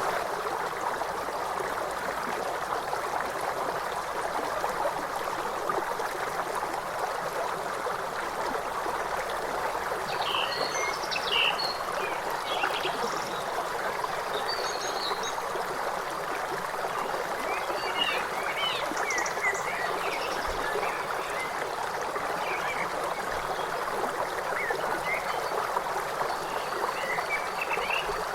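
A river flowing steadily, with short high bird chirps coming in about a third of the way through and recurring on and off.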